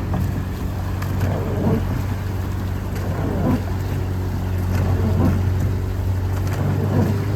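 A boat's engine running steadily at a low, even hum. A swishing swells and fades about every second and a half to two seconds over it.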